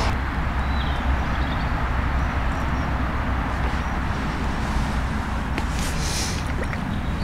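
Steady low outdoor rumble with no speech, and a brief high rustle about six seconds in.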